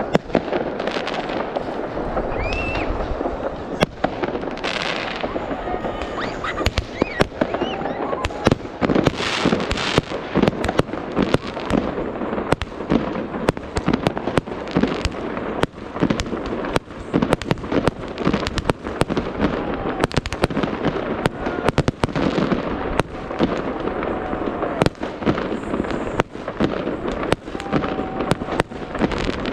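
Fireworks going off without pause: rapid loud bangs layered over continuous crackling, with a few short whistles gliding in pitch.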